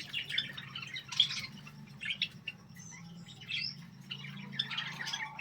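Caged pet birds chirping: many short, overlapping chirps with a few rising calls, over a faint steady low hum.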